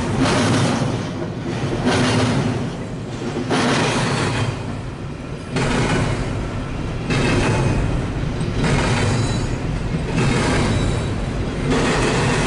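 Double-stack intermodal freight train rolling past, its wheels clattering on the rails in surges that come and go about once a second.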